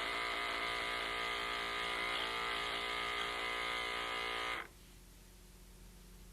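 Rx System 2 dental-instrument honing machine's small electric motor running with a steady whine while a discoid carver is sharpened on the hone. It stops suddenly about four and a half seconds in, leaving a faint low hum.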